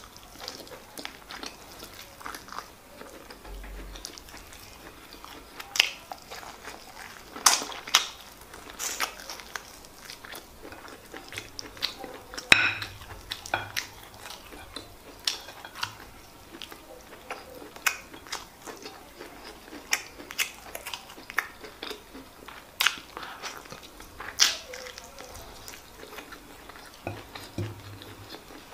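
Close-miked chewing and wet mouth sounds of a person eating white rice and stewed chicken by hand, with irregular sharp smacks and clicks.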